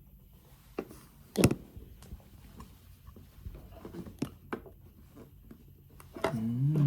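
Hookah parts being handled and worked loose: one sharp knock about a second and a half in, then scattered light clicks and taps.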